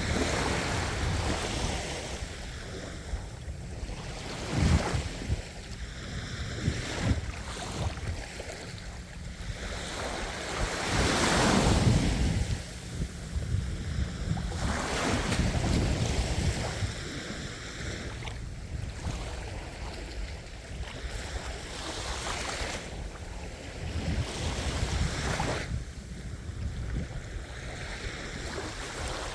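Ocean waves breaking and washing up in repeated surges a few seconds apart, the biggest about halfway through.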